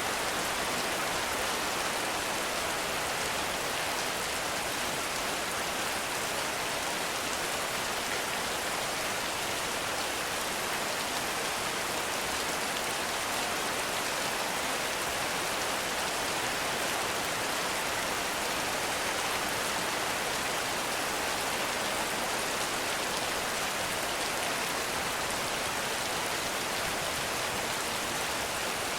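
Heavy rain falling steadily, a dense even hiss of many drops on leaves and ground with no distinct drips or thunder.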